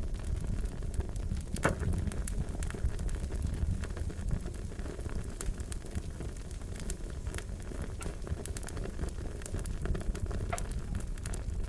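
Wood fire crackling: a steady low rumble of flames with scattered sharp pops and snaps, one louder pop about a second and a half in.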